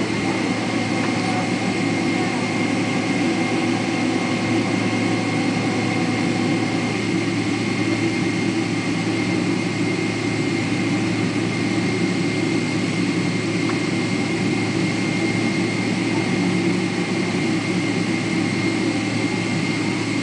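General Electric GE90-115B turbofan engines of a Boeing 777-300ER running steadily, heard from inside the cabin: a dense, unchanging rumble with a steady high whine over it.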